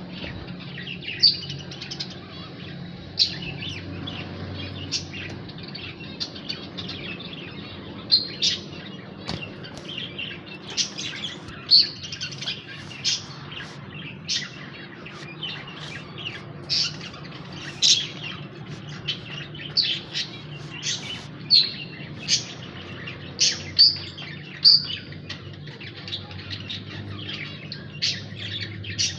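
Lovebirds making short, sharp, high chirps at irregular intervals, one or two a second, over a faint steady low hum.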